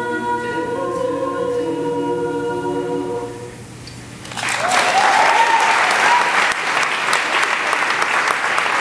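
A vocal group sings a held final chord in several voices, which ends about three and a half seconds in. After a short pause the audience breaks into loud applause and cheering, with one rising whoop.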